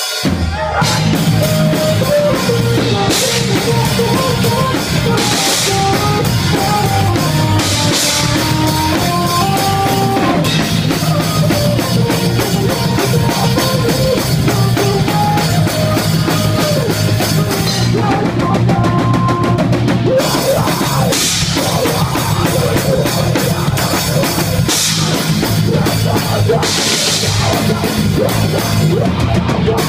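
A rock band playing live at full volume: drum kit with regular cymbal crashes, bass and distorted guitar, with a short drop in the drums about two-thirds of the way through.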